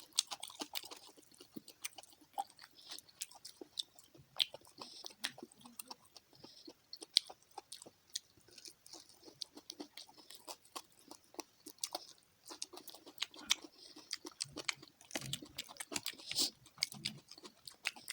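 Close-up chewing of fried fish: a steady run of irregular wet mouth clicks and small crunches as it is bitten and chewed.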